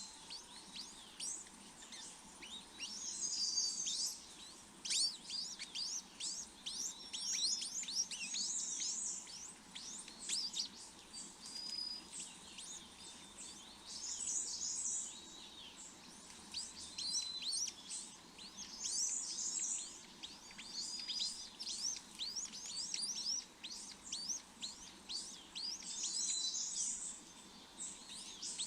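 Small birds chirping: a dense run of rapid, high chirps sweeping downward in pitch, with a few short whistled notes mixed in.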